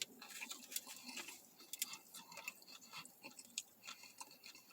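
A person chewing a bite of a sub sandwich close to the microphone: faint, irregular wet mouth clicks and smacks.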